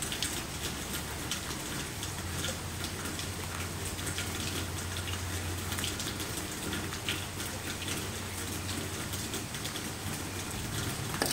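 Steady rain falling on a wet concrete patio and its puddles, an even hiss sprinkled with many small drop ticks.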